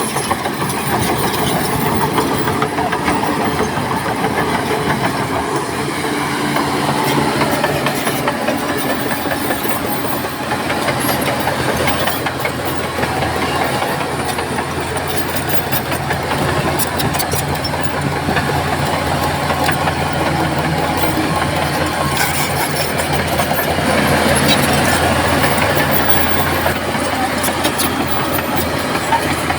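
Crawler bulldozer working: its diesel engine runs steadily under load, with the clank and squeal of steel tracks. The engine grows louder for a few seconds about two-thirds of the way through.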